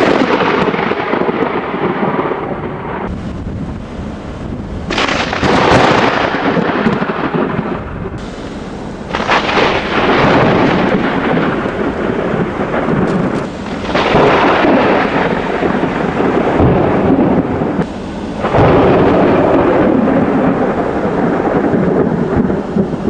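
Thunderstorm with rain: loud rushing noise that comes in surges, five of them, each starting suddenly and dying away over a few seconds.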